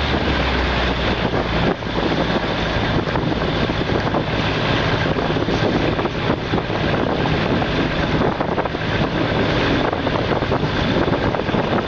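Passenger train running along the track, heard from an open carriage window: a steady, loud rumble of the wheels on the rails mixed with wind buffeting the microphone. A low hum underneath drops away about two seconds in.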